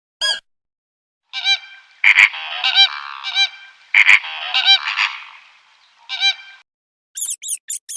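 Honking bird calls, several overlapping: one short honk just after the start, then a dense run of honks from about a second in to past six seconds.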